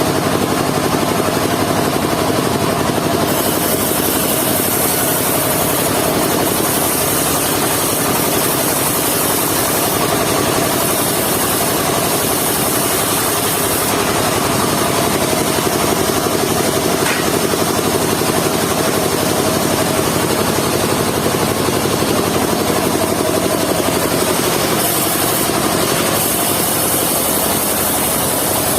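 Engine-driven mobile circular sawmill running steadily through log sawing, with a high hiss that drops out briefly a few times.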